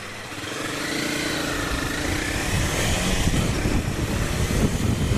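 Honda CBR300R single-cylinder engine pulling under acceleration, its note rising and wavering over the first few seconds. Wind rumble on the helmet microphone builds and takes over.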